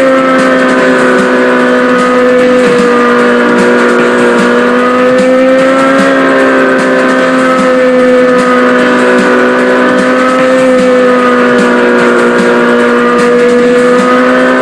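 Small motorbike engine running at a steady high pitch, wavering only slightly up and down.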